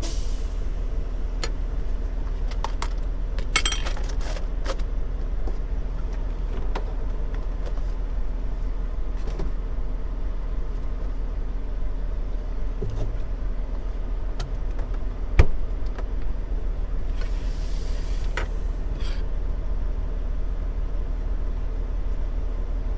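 Steady low hum with scattered small clicks and knocks, one sharp knock about fifteen seconds in, and a brief hiss a few seconds later.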